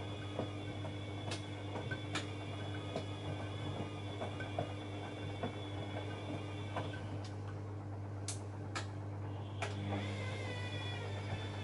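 Bosch Maxx front-loading washing machine's drum motor running with a wavering whine over a steady hum, and scattered clicks and knocks. The whine stops about seven seconds in and starts again about three seconds later, as the drum pauses and turns again.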